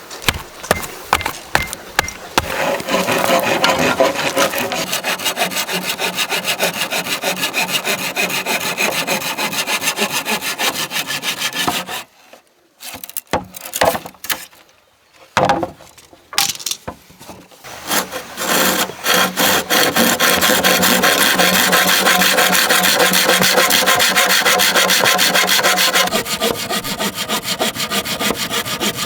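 A saw cutting through bamboo in long runs of fast, even strokes. A few knocks come at the start, and there is a pause of a few seconds around the middle with a few more knocks before the sawing resumes.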